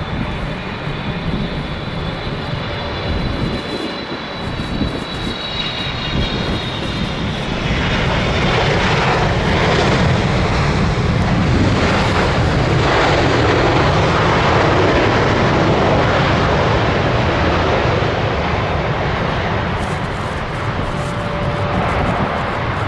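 Boeing 777-300ER's GE90 jet engines going by on approach: a high fan whine at first, then a broad rush of jet noise that swells, is loudest in the middle stretch, and eases off near the end.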